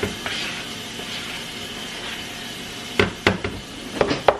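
A steady hiss, then about half a dozen sharp knocks of a utensil against a mixing bowl of pancake batter in the last second and a half.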